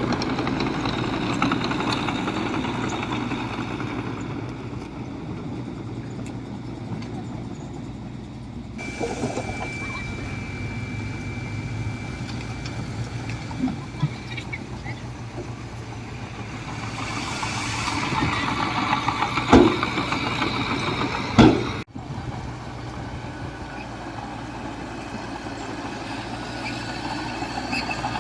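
Diesel engines of earthmoving machinery running steadily, with a thin high whine for a few seconds near the middle and two loud clanks about two seconds apart in the second half.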